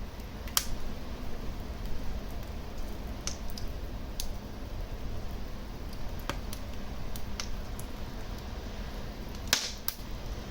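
Wood fire crackling in a fireplace: a steady low rumble of the flames with scattered sharp pops, the loudest a little after nine seconds in.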